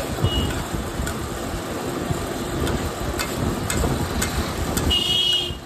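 Mutton bheja fry gravy bubbling and sizzling on a large flat griddle as a metal spatula stirs and scrapes through it, with a few sharp spatula clicks over a steady low rumble. A brief high squeal sounds near the end.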